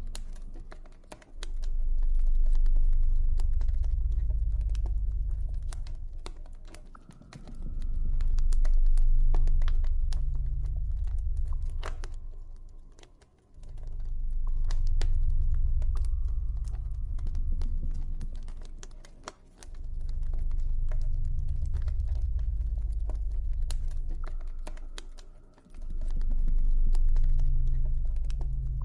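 Campfire crackling, with many small sharp pops and snaps, over a deep low drone that swells up and fades away about every six seconds.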